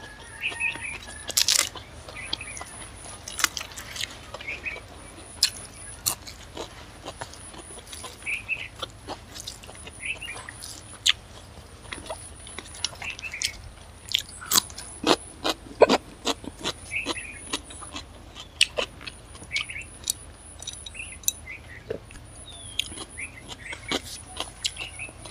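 Close-up chewing and mouth sounds of eating rice and chicken curry by hand: irregular wet clicks and smacks, bunched several a second in places, over a steady low hum.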